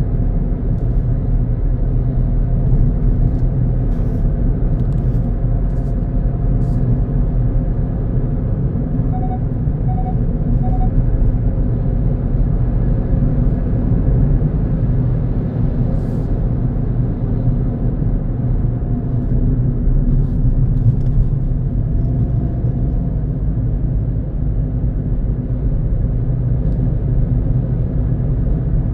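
Steady low rumble of a car on the road, engine and tyre noise, with a few faint clicks and three short beeps about ten seconds in.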